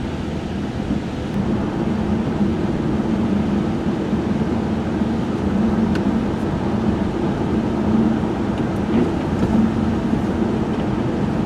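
Cabin noise of a 1995 Chevrolet Monte Carlo driving on a wet, snowy road: a steady drone of engine and tyres with a low hum, a little louder after the first couple of seconds.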